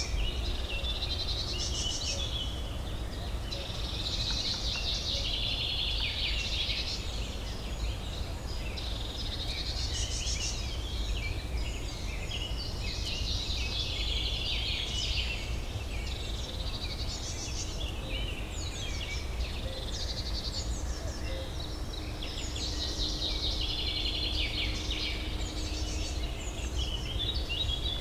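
Several songbirds singing and chattering over one another without a break, over a steady low city hum.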